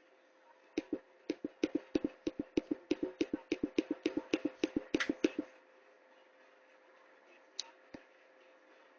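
A quick, uneven run of about twenty sharp taps lasting some four and a half seconds, then two more taps near the end, over a faint steady hum.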